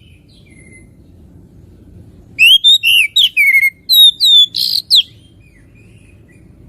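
Oriental magpie-robin (kacer) singing a quick run of loud, clear whistled notes, some swooping up and some falling, starting about two and a half seconds in and lasting about three seconds.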